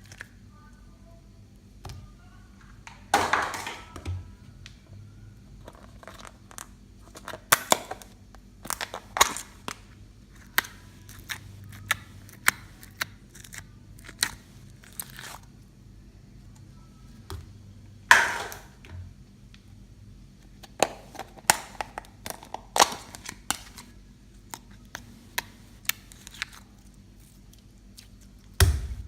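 Slime being kneaded and stretched by hand: irregular sticky crackles, clicks and pops as air pockets burst. A few longer, louder crackles come about 3, 8, 9 and 18 seconds in.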